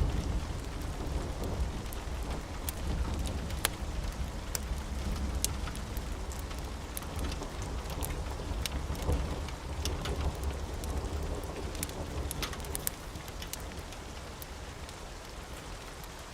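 Steady rain with a deep rumble of thunder that slowly fades away, and scattered sharp crackles throughout.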